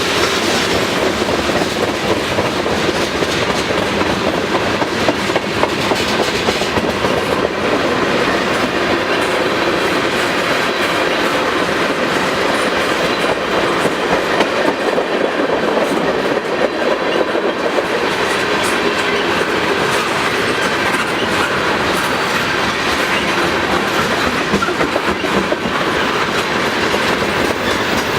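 Freight cars of a long manifest train rolling steadily past, their wheels clattering over the rail joints.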